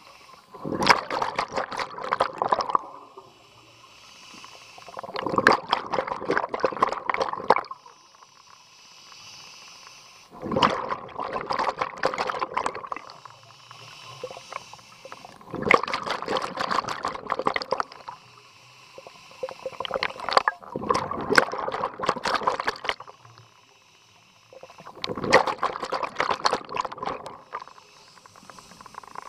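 Scuba diver's regulator breathing underwater: about every five seconds an exhalation sends out a two-to-three-second gush of crackling bubbles, and a faint hiss of inhaling through the regulator falls between them.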